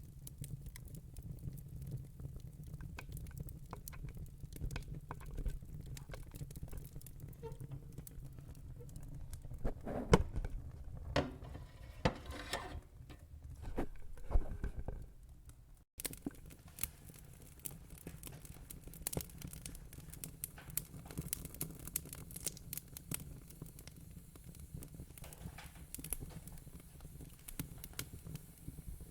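Wood fire crackling with dense, irregular small snaps over a low rumble. A cluster of louder pops comes about a third of the way in. The sound drops out for an instant about halfway through.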